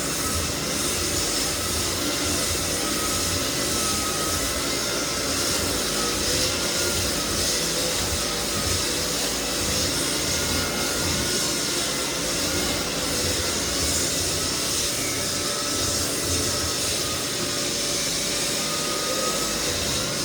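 Lagler Flip drum floor sander running steadily on white oak flooring, a continuous motor and sanding noise with a faint wavering whine.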